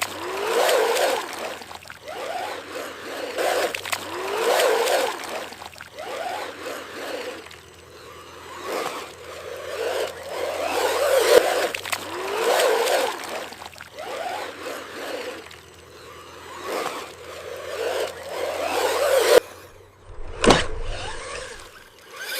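RC monster truck's motor whining up and down in repeated bursts of throttle, about a dozen in all, while its tyres churn and splash through mud.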